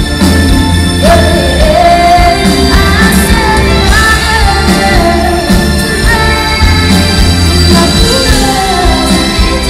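Pop-rock band playing, with a female lead voice singing sustained, gliding phrases over a steady bass line.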